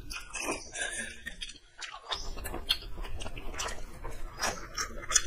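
Two people chewing mouthfuls of rice and curry eaten by hand, a dense run of short wet smacks and clicks.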